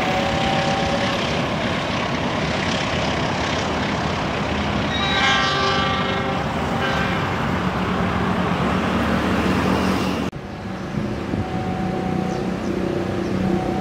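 Passenger train running away over the rails with steady wheel and rail noise. About five seconds in, a train horn sounds, one longer blast and then a short one. Near the end the train noise cuts off suddenly, and a quieter steady low hum follows.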